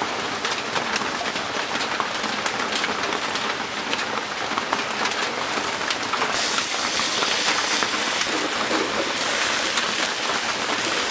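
Heavy rain pattering steadily on a roof: a dense, even hiss full of small drop ticks. The hiss grows stronger for a few seconds in the middle.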